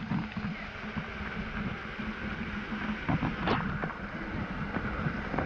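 Steady rush of water falling and running at a rainforest waterfall.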